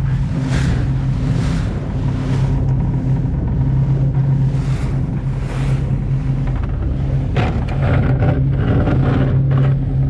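195-horsepower V6 sterndrive of a Tahoe Q5i deck boat running steadily under way, with a constant low engine note. Gusts of wind and rushing water come and go over it, heaviest near the end.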